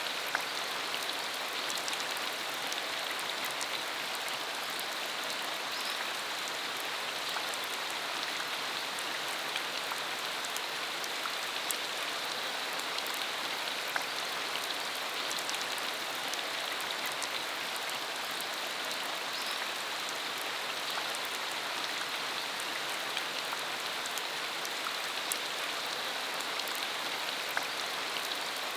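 Steady rain falling on a dirt country road, an even hiss with many small drop ticks scattered through it.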